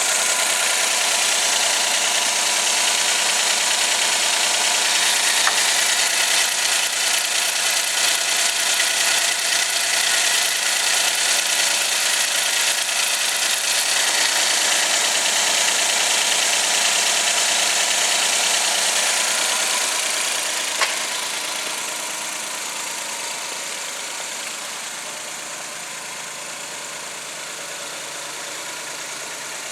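Suzuki K6A three-cylinder engine idling steadily. About two-thirds of the way through there is a sharp click, and the engine sounds quieter from then on.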